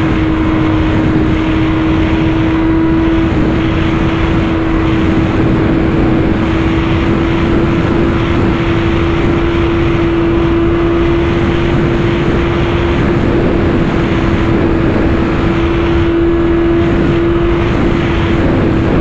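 Sportbike engine held at high revs at speed, one steady high note that creeps slightly higher, under heavy wind rush on the helmet microphone.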